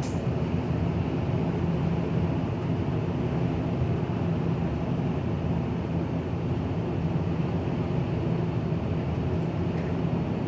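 Steady low hum and rumble with a few faint steady low tones, like machinery or ventilation running, with no shots or knocks.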